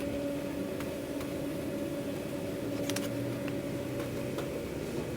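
Steady mechanical hum of food-truck kitchen equipment, with a few light clicks and taps from food being packed.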